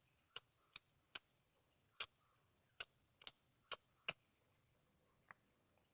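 Cat chewing on a squirrel carcass: faint, sharp, irregular clicks and crunches of teeth on bone, about nine in all, spaced roughly half a second to a second apart and thinning out near the end.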